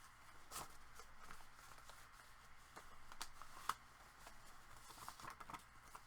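Faint rustling and light clicks of paper being handled as a scrap of paper is slid back into a paper pocket in a handmade journal, over a low steady hum.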